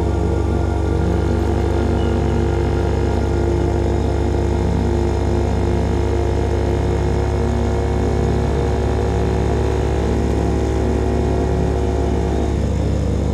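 CFMOTO Papio SS single-cylinder engine running at a steady cruise through a KO Lightning slip-on exhaust, its note holding level and shifting slightly near the end.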